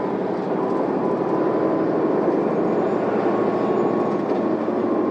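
Cabin noise of an Isuzu Erga city bus under way: a steady diesel engine drone and road noise heard from inside the passenger compartment.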